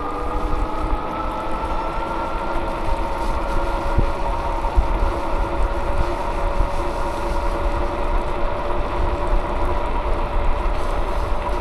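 Wind buffeting the microphone while riding a bicycle, with a steady whine that slowly rises in pitch.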